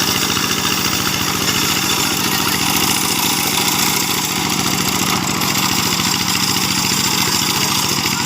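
Single-cylinder diesel engine of a two-wheel hand tractor running steadily with a fast, even chugging.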